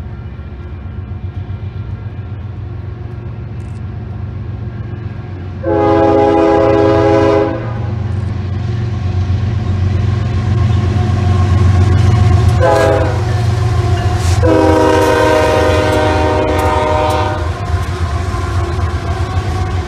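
Freight train's diesel locomotives rumbling past while the lead unit's Nathan K5HL five-chime air horn sounds three times: a long blast, a short one, then another long one.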